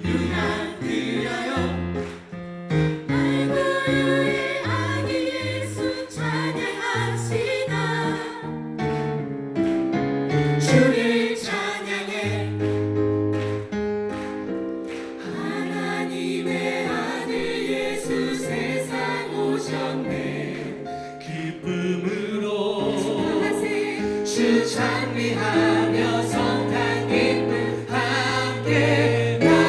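Choir singing a Christmas gospel song with instrumental accompaniment and a steady bass line.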